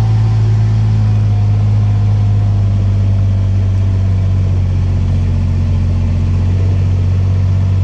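A vehicle's engine running steadily while driving, a constant low drone.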